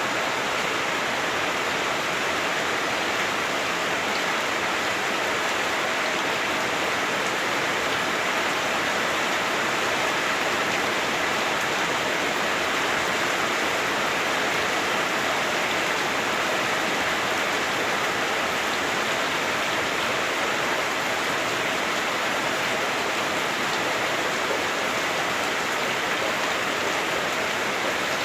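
Heavy rain falling on a house roof, heard from inside through the roof: a dense, steady hiss with no breaks or single drops standing out.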